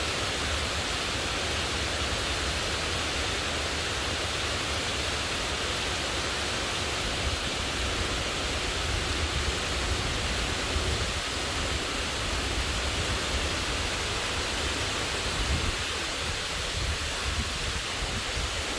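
Heavy rain pouring down in a steady, dense hiss, with a low uneven rumble underneath.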